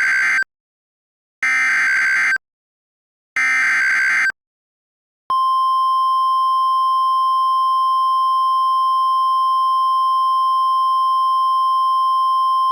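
NOAA Weather Radio emergency alert: three short bursts of buzzing SAME digital header data separated by silent gaps, followed about five seconds in by the steady single-pitch warning alarm tone, signalling that a tornado emergency message follows.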